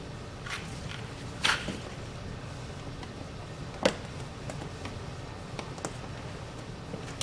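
A few scattered clinks and a short scrape of hand tools on the truck's wheel hub, the sharpest click about four seconds in, over a steady low hum.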